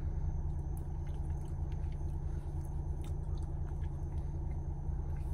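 People chewing Pop-Tart toaster pastries, faint soft crunches over a steady low hum in a car cabin.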